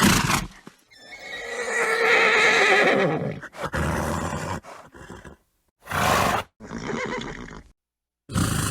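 Horse whinnying: one long, quavering neigh of about two seconds, followed by several shorter horse sounds. Each sound is cut off abruptly into silence.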